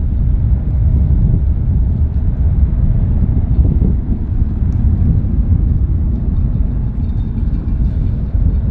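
Steady low rumble of jet airliner engine noise mixed with wind buffeting the microphone.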